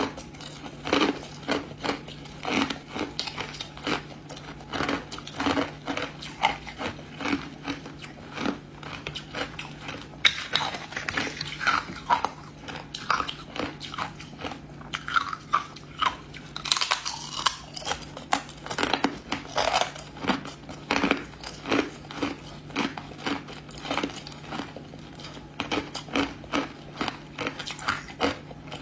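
Ice being bitten and crunched between the teeth close to the microphone: rapid, irregular crunches, several a second, with a few louder bites scattered through.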